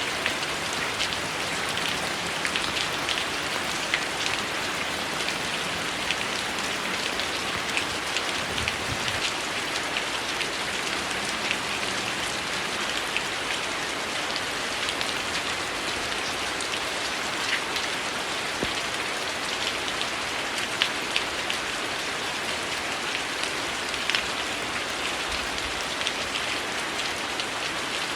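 Heavy rain falling steadily, an even hiss with individual close drops ticking through it now and then.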